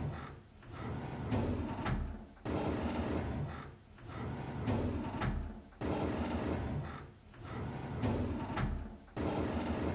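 A drawer sliding open with a rough, rumbling scrape that ends in a sharp knock, repeated as a loop about every three and a half seconds.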